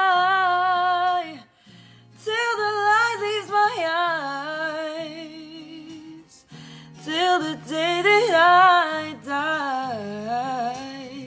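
Female voice singing wordless, wavering melodic lines over steady low guitar notes. A held note ends about a second and a half in, followed by a brief pause and two more sung phrases.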